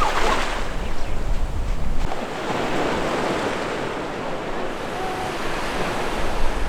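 Ocean surf washing onto a beach, a steady hiss that swells about three seconds in. Wind buffets the microphone with a low rumble for the first couple of seconds.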